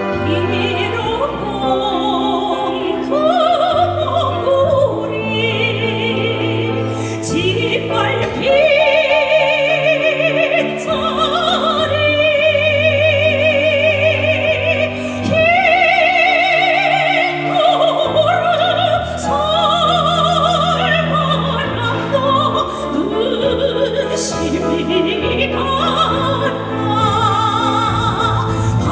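A woman singing a slow song in trained classical, operatic style with a strong, wide vibrato, over an orchestral backing track.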